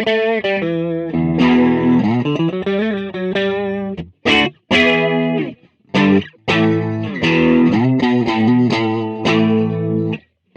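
Clean electric guitar played through a Donner MultiPad-100 multi-effects processor with a little reverb and a flanger. A quick run of single notes leads into strummed chords, several of them cut short with brief silences between.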